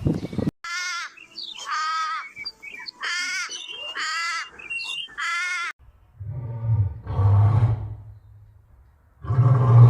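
Animal calls: about five short, high-pitched calls with rich overtones, then, from about six seconds in, deep low-pitched calls from a different, larger-voiced animal.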